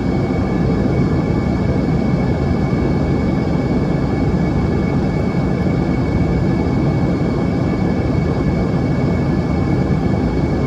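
Steady cabin noise of an Embraer ERJ-145 in flight: an even low rush of airflow and its rear-mounted Rolls-Royce AE 3007 turbofans, with a thin steady high whine over it.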